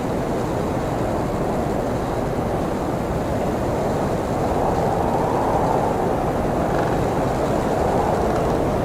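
Blizzard wind blowing in a steady low rush, swelling a little about halfway through.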